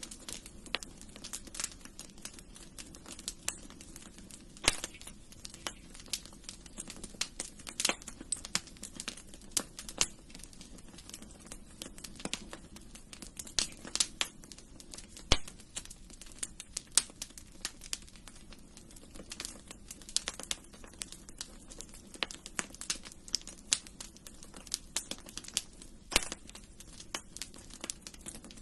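Wood fire burning in a fireplace, crackling with irregular sharp pops and snaps, a few much louder than the rest, over a soft steady low rush.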